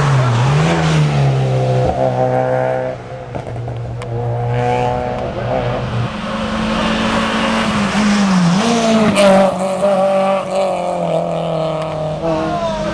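Hill climb race car's engine under load as it climbs the course, its pitch dipping and climbing again near the start and again past halfway.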